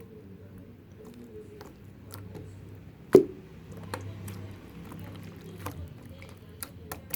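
Opaque slime being pressed and squished by hand, making small sticky clicks and pops, with one sharp, loud pop about three seconds in.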